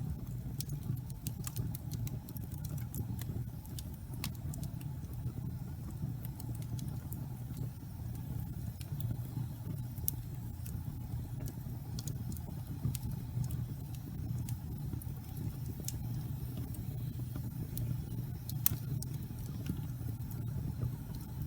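Fire burning in a fireplace, crackling: scattered sharp pops over a steady low rumble of the flames, with a louder pop near the end.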